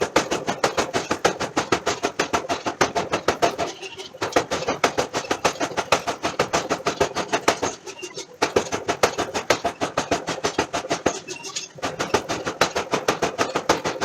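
Forging power hammer striking a billet in quick, even blows, about six a second, in runs of about four seconds with brief pauses between them.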